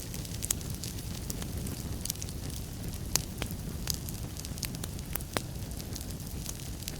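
Wood fire burning in a fireplace: a steady low rumble with frequent sharp, irregular crackles and pops, the loudest pops about half a second in and about three seconds in.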